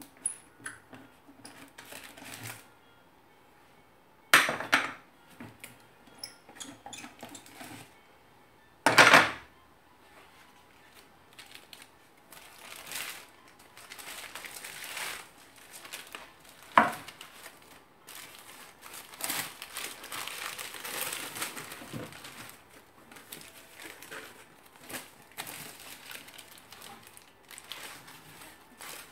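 Hands at work gluing and strapping a wooden board: scattered clatter and knocks of tools and parts, with crinkling of wax paper. Two loud sudden clatters come about four and nine seconds in, and a sharp knock near the middle.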